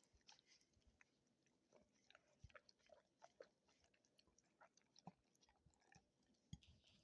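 Faint, irregular chewing and mouth clicks of a dog eating small treats.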